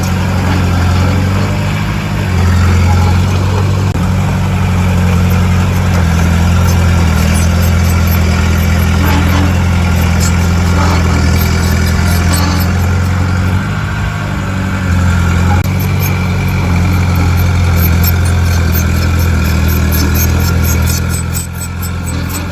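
Heavy diesel engine of earthmoving machinery running steadily, with faint rapid ticking high up that grows denser near the end.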